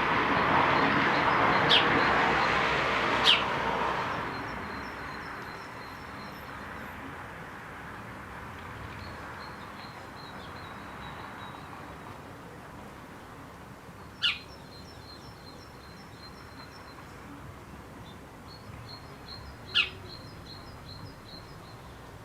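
Wild birds calling outdoors: five loud, sharp notes that sweep quickly down in pitch, three in the first few seconds and two more later, over several runs of thin, high, quickly repeated twittering notes. A steady rushing background noise fades away about four seconds in.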